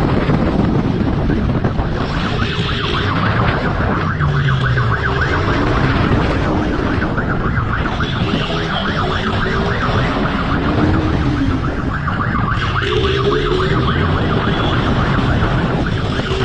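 Police siren sounding in repeated bursts over a loud, steady rush of noise, with a motorcycle engine rising and falling in pitch during a high-speed pursuit.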